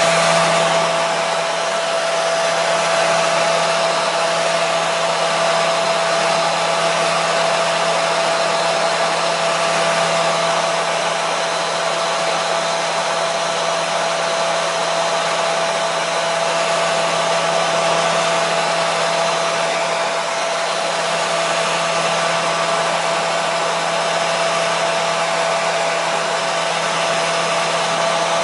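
Hair dryer running steadily: a constant rushing hiss of air with a steady motor whine and a low hum underneath.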